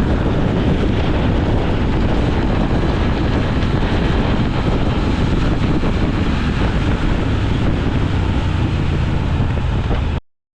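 Motorcycle riding at speed, with steady wind buffeting the microphone over the engine and road noise. The sound cuts off suddenly near the end.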